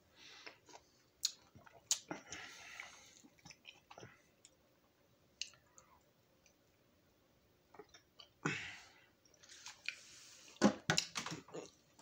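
A person biting and chewing juicy orange slices close to the microphone: irregular sharp mouth clicks and short wet smacking noises, busiest near the end.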